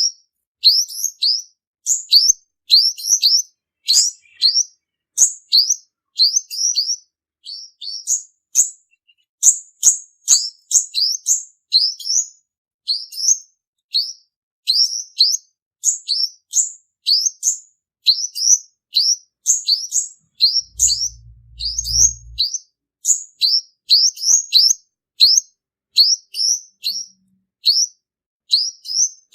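Male olive-backed sunbird singing a fast, unbroken run of short, high, thin notes, about three a second, many of them sliding downward. This is the male song used as a lure for trapping. A brief low hum comes in about 21 seconds in.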